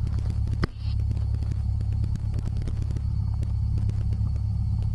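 Steady low drone of a Cessna 172's piston engine and propeller heard inside the cabin, with faint crackling ticks. One sharp click under a second in, with a brief dip in level.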